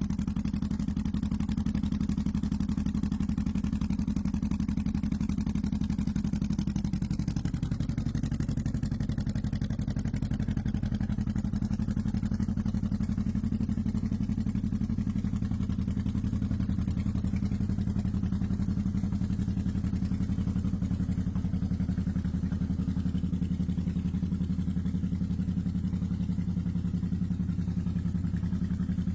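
Honda VTX 1800C's large V-twin engine idling steadily, its idle speed dipping slightly about seven seconds in.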